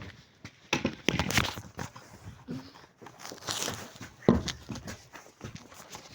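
Footsteps and rustling while walking, uneven, with a sharp knock a little past four seconds in.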